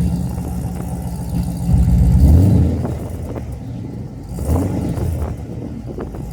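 Chevrolet Camaro engine running through Kooks headers and a MagnaFlow exhaust: idling with a rev about two seconds in that rises and falls back, and a smaller blip of the throttle later on.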